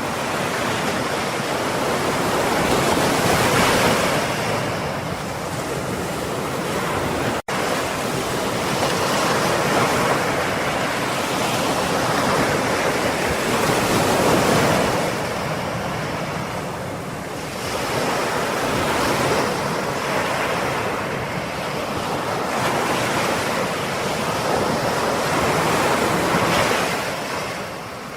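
Ocean waves breaking and washing ashore in a steady hiss of surf that swells and ebbs every several seconds. There is a split-second gap in the sound about seven seconds in.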